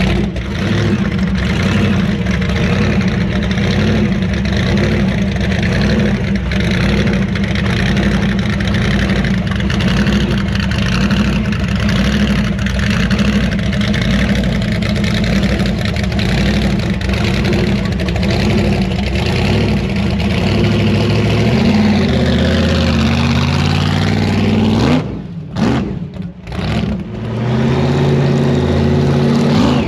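Truck engine running loudly. From about two-thirds of the way through, its pitch rises and falls as it revs, and the sound briefly drops out twice near the end.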